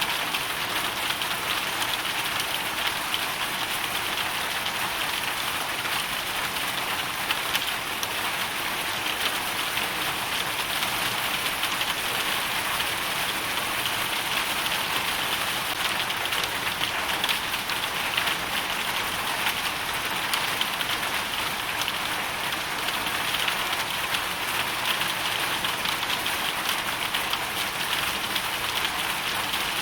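Hailstorm: a dense, steady patter of hail and rain striking a surface, countless small ticks running together without a break.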